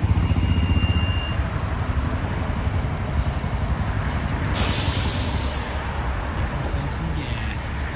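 BMW R1200 GS boxer-twin motorcycle engine running at low speed, a steady low rumble, with a short hiss about halfway through.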